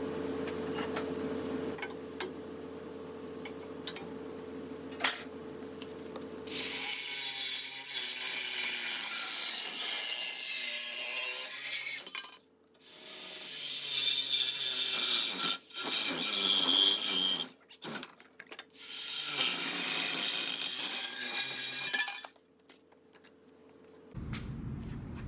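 A power tool cutting in several long runs with short pauses between them, starting about a quarter of the way in. Before it there is a lower steady hum with light clicks and knocks.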